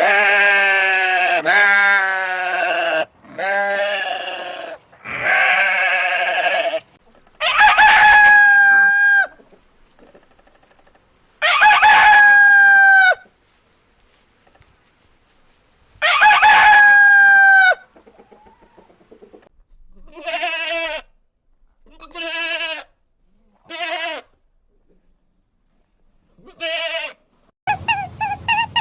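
Farm animals bleating several times, then a rooster crowing three times: long loud crows that hold a steady pitch and drop off at the end. Four shorter, fainter calls follow, and music starts near the end.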